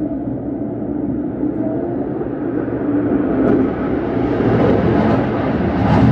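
The F-35A's single afterburning turbofan jet engine rumbling overhead, a deep roar that grows steadily louder and brighter as the jet approaches.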